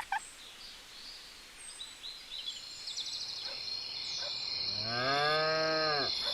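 A cow mooing once, one long call that rises and then falls in pitch, about two thirds of the way through. A steady high trill runs underneath from about halfway.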